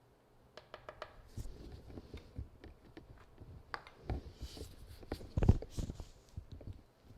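Small clicks, taps and rustles of objects being handled on a worktable, with a louder knock about five and a half seconds in.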